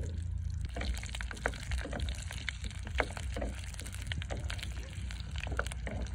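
Whole small red onions frying in hot oil in a clay pot: a steady sizzle with many small pops and clicks as a slotted wooden spoon stirs them.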